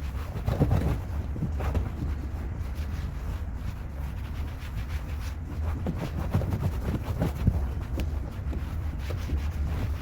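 Irregular rubbing and scrubbing strokes on car interior surfaces, typical of a detailing brush or cloth at work, over a steady low rumble.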